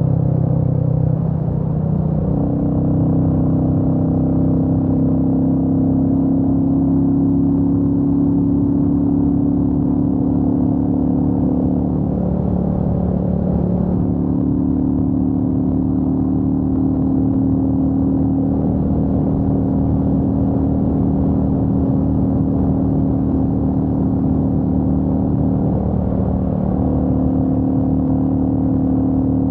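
Royal Enfield Meteor 350's single-cylinder engine and exhaust running steadily while riding on the road. Its pitch steps up about two seconds in, then dips briefly twice, near the middle and near the end.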